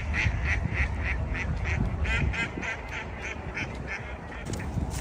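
A duck quacking in a rapid run of short calls, about four a second, growing fainter and stopping about four seconds in.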